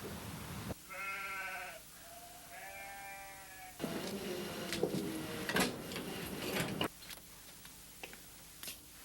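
Two wavering bleats, like a sheep or goat, about a second long each, followed by a few seconds of clattering and knocks.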